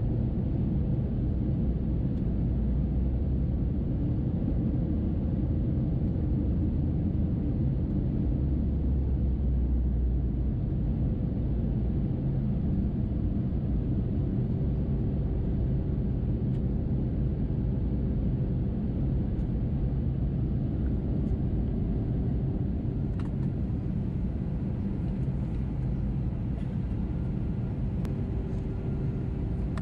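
Steady low rumble of an Airbus A321neo in flight, engine and airflow noise heard from inside the cabin at the window seat; a faint steady hum joins about halfway through.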